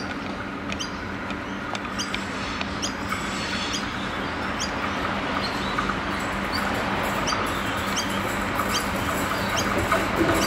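Adelaide Metro 3000 series diesel railcar approaching, its rumble and hum growing steadily louder. Short, high, rising chirps repeat on top, about one every half second to second.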